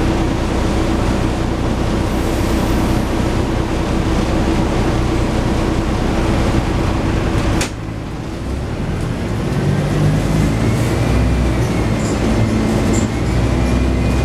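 Scania N113 bus running at speed with a steady drone. About halfway there is a sharp click and the note drops, then a whine rises in pitch as the bus picks up again.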